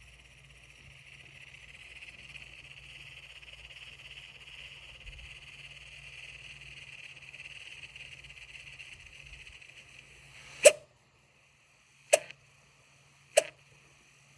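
Dell XPS 13 7390 laptop's processor fan running with an abnormal noise: a steady whirring hiss with thin high-pitched whining tones over it, from a fan that Dell's diagnostics report as failing. About ten and a half seconds in, the whir drops away and three sharp clicks follow, about a second and a half apart.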